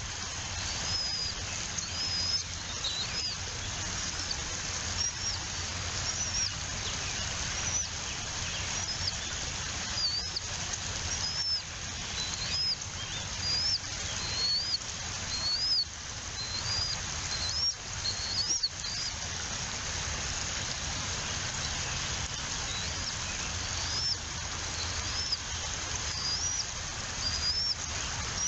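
Bald eagle chicks peeping: a string of short, high, arching chirps, about one a second. They stop for a few seconds past the middle, then resume, over a steady background hiss.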